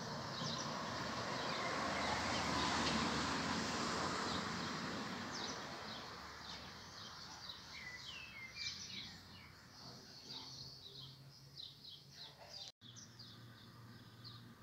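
Regional train of an E464 electric locomotive and Vivalto coaches pulling away from the station; its running noise swells for the first few seconds and then fades. Birds chirp as it dies away. Near the end the sound drops out briefly and a steady low hum follows.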